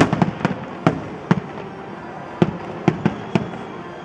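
Fireworks display: aerial shells bursting in an irregular run of sharp bangs, a dozen or so in four seconds, over a steady crackling haze.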